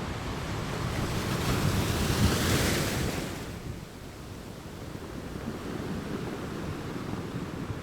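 Ocean surf: a wave breaks and rushes in, swelling over the first couple of seconds, then falling away about four seconds in to a lower, steady wash.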